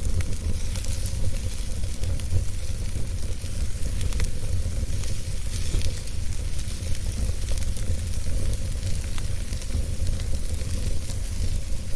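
Wood fire burning in a fireplace: a steady hiss with scattered sharp crackles and pops over a low, even rumble.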